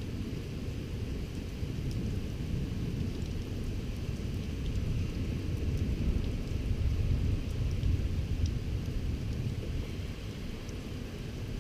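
Thunder rumbling low and long, swelling in the middle and easing off near the end, over rain with scattered drops ticking.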